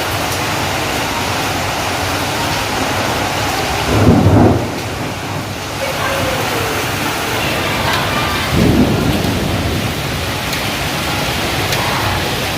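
Heavy rain falling steadily, a dense even hiss, with two short low rumbles of thunder, about four seconds in and again about eight and a half seconds in.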